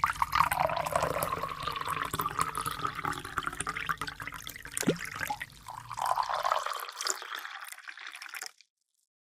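Water pouring and splashing, with many small drips and clicks; it stops suddenly near the end.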